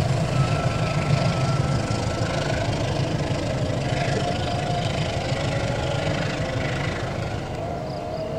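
Passenger train carriages rolling away along the track: a steady rumble of wheels on rails with thin steady whining tones over it, easing off slightly near the end.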